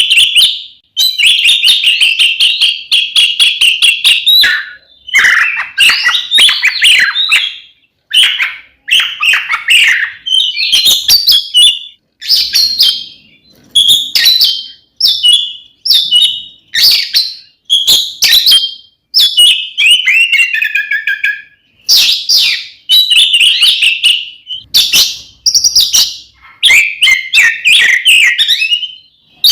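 Oriental magpie-robin (kacer) singing its loud, sustained 'ngeplong' fighting song: a rapid run of varied whistled and chattering phrases broken by brief pauses, opening with a note held for about three seconds.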